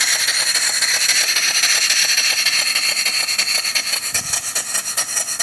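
Small antique steamboat steam engine running on compressed air, its exhaust hissing with a fast, even chuff from each stroke.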